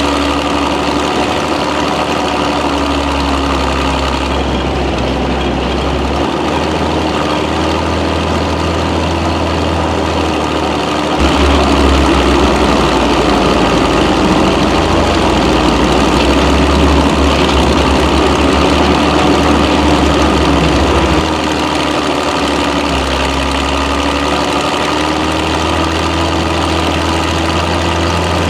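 Hetzer tank destroyer's Czech-built Praga straight-six engine running as the vehicle is driven, its revs dipping and rising several times. It gets louder for about ten seconds in the middle, then settles back.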